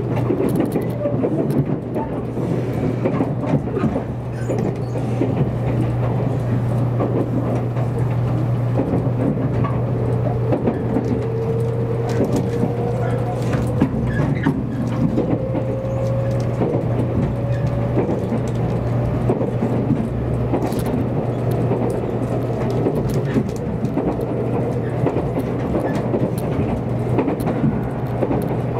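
Steady running noise inside a JR Kyushu 783 series limited-express train car: a low rumble of wheels on rail, with a faint whine that rises slowly in pitch through the middle.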